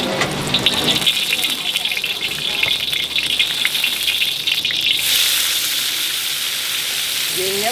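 Noodles frying in a wok over a charcoal fire: a crackling sizzle with many small pops, turning into a louder, steadier hiss about five seconds in.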